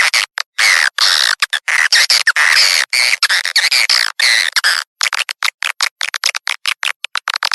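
Swiftlet lure-call recording: twittering, chattering swiftlet calls in stretches with short breaks, turning about two thirds of the way through into a quick run of short clicking chirps. This kind of recording is played from swiftlet houses to draw swiftlets in to roost.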